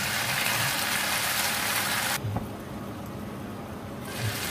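Chicken bistek frying in a pan, a steady sizzle. About two seconds in, the sizzle drops away abruptly to a low murmur, then comes back just before the end.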